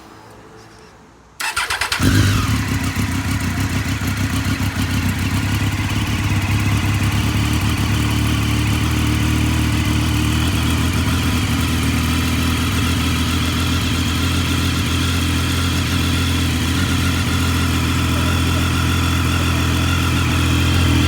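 2017 Triumph Daytona 675R's 675 cc inline three-cylinder engine through its stock exhaust: the starter cranks briefly about a second and a half in, the engine catches with a short flare of revs, then settles into a steady idle.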